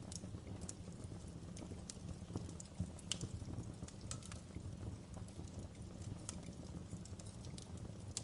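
Wood fire burning in a fireplace, crackling: irregular sharp pops and snaps over a low steady rumble, with a couple of louder pops about three seconds in.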